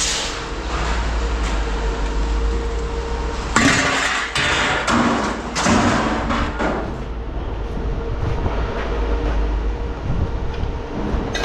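Scrap metal pieces clattering and thudding as they are handled and tossed aside while being sorted, loudest in a few bursts around the middle, over a steady low machine hum.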